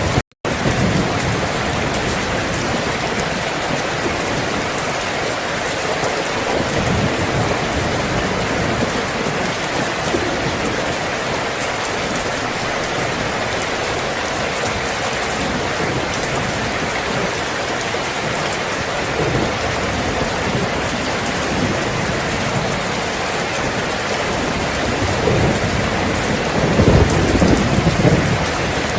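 Steady heavy rainfall, with a low rumble of thunder swelling and fading near the end. The sound cuts out for an instant just after the start.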